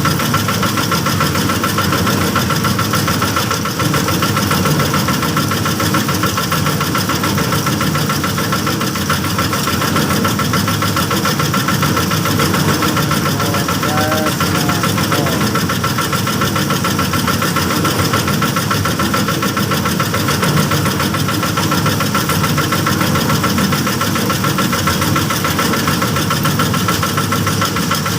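Small engine running steadily at a constant speed with a fast, even knocking beat.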